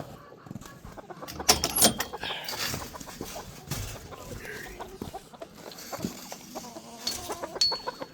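Chickens clucking, with a few sharp knocks or clatters about a second and a half in.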